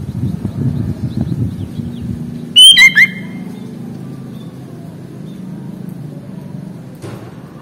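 Sooty-headed bulbul giving a short, loud burst of whistled notes about two and a half seconds in, with faint high chirps and a steady low rumble underneath.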